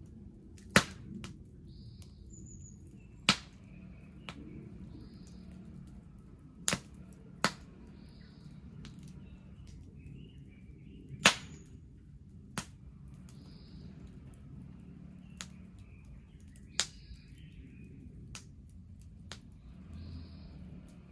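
Wood bonfire burning, a steady low rush of flames broken by sharp crackling pops every second or two, the loudest about eleven seconds in.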